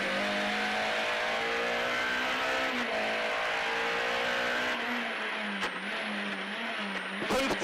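VW Golf 3 KitCar rally car's engine heard from inside the cabin, running hard at high revs through a special stage. There is a brief dip in revs about three seconds in, and the pitch wavers up and down in the second half.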